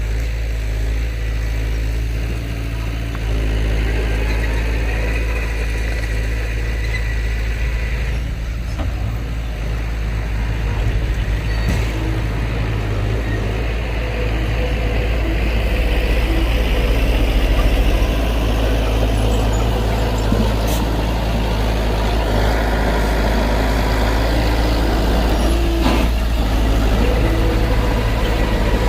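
Heavy diesel engine of earthmoving machinery, a bulldozer or dump truck, running steadily with a low rumble. It gets louder over the first few seconds.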